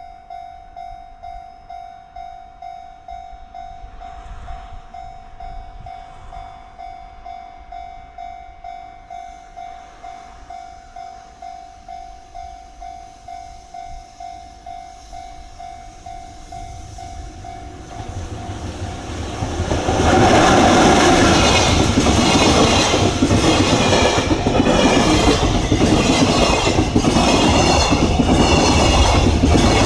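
Level crossing warning bell ringing in a steady fast beat, about two and a half strikes a second, then a freight train arrives about twenty seconds in and passes loudly, its wheels clacking in a regular rhythm over the rail joints.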